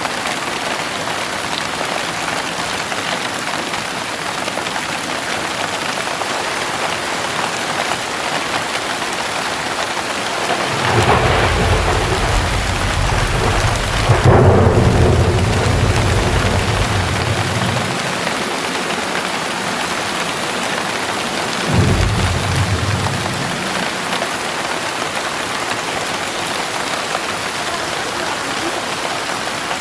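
Heavy rain pouring steadily, with thunder: a low rumble builds about eleven seconds in, peaks in a loud crack a few seconds later and rolls away over several seconds, and a shorter rumble follows about eight seconds after that.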